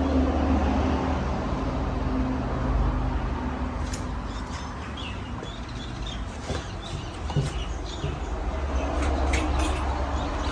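Hampton Bay Cameron II Plus ceiling fan with a 188 mm spinner motor running: a steady motor hum and the rush of moving air. Faint chirps and a few sharp clicks come in over it in the second half.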